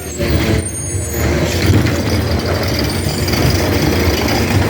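Garbage truck's diesel engine running steadily as the truck drives close past, a deep rumble with a hiss over it that starts suddenly just after the beginning.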